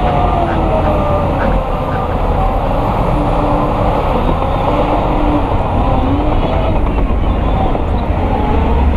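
Heavy diesel earthmoving machinery running steadily under load, a dense low rumble with a faint wavering whine above it.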